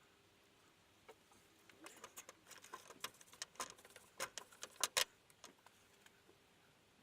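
A flurry of irregular light clicks and knocks, starting about two seconds in and ending about five and a half seconds in, the loudest near the end of the flurry.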